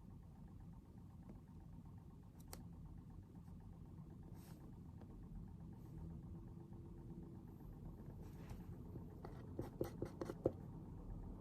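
Faint desk sounds of someone studying over a steady low room rumble: a few light clicks and a soft rustle, then a quick cluster of small taps and knocks about ten seconds in, the loudest moment.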